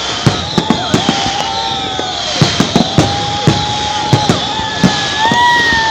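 Fireworks going off: an irregular string of sharp bangs and pops over a steady crackling hiss, with several long whistles held for a second or two.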